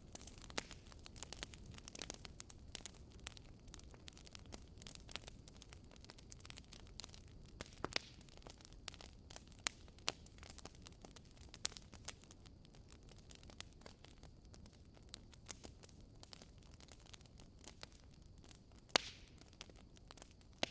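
Wood fire burning in a fireplace: logs crackling with irregular sharp pops over a low, steady hiss.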